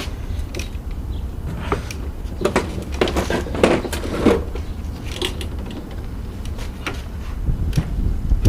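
Scattered knocks, clicks and short creaks as a push lawn mower is tilted over toward an oil drain pan, with a steady low rumble underneath.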